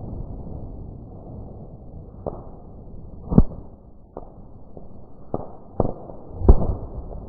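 Fireworks from a 48-shot cake going off as a string of sharp bangs at uneven intervals, about six in all. The loudest comes about a third of the way in and another near the end.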